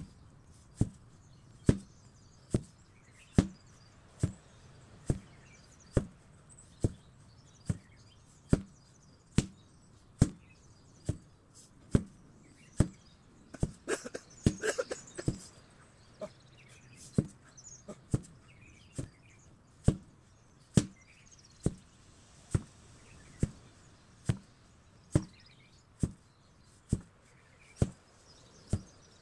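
Steady, evenly paced strikes of an 8 kg sledgehammer, a little more than one blow a second, each a single sharp impact. About halfway through, a brief flurry of smaller knocks and rustling sounds mixes in between the blows.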